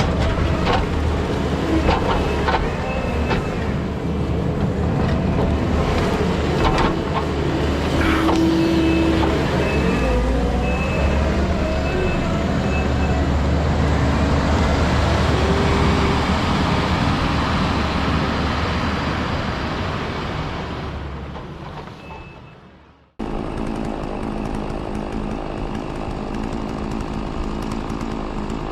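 Diesel heavy equipment running under load, with clanks and knocks and a few short high beeps. About 21 s in it fades away, then cuts back in as another steady machine drone.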